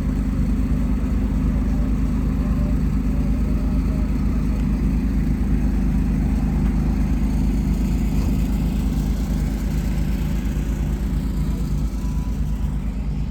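Car engine idling steadily and close by, with an even low pulsing beat.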